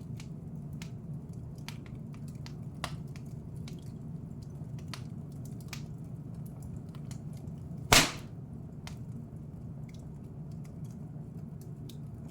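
Wood fire in a fireplace crackling, with scattered small pops and snaps over a low steady rumble, and one loud sharp pop about eight seconds in.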